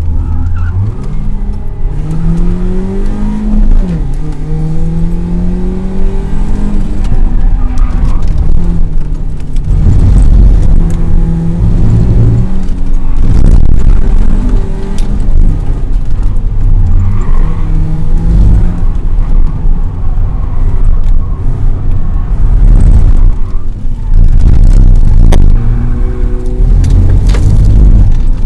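BMW race car's engine heard from inside the cabin under hard acceleration on a timed circuit lap, its pitch rising through each gear and dropping back at the shifts, several times over, with lifts off the throttle between.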